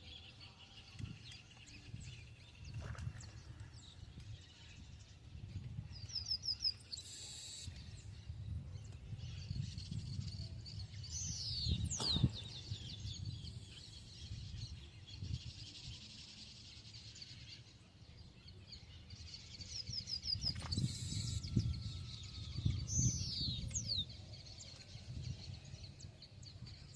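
Wild birds singing, one bird repeating a short falling song phrase about four times, over a low, uneven rumble.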